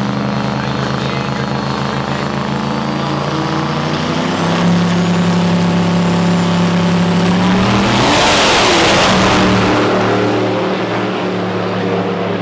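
Turbo-diesel drag racing trucks making a pass: steady engine drone, stepping up in pitch and loudness about four seconds in, with a loud rushing surge of noise around eight to ten seconds in before it settles back to a steady drone.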